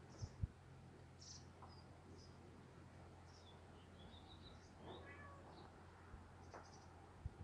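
Faint songbird chirps and twittering scattered through a quiet outdoor background with a low steady hum, and two soft thumps near the start.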